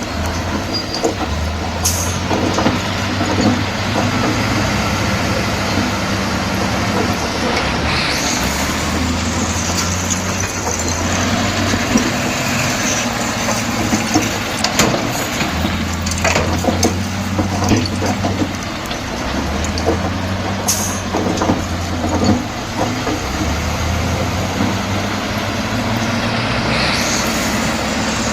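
Heavy diesel construction machine running, its engine note stepping up and down under changing load, with scattered metal clanks and several short hisses.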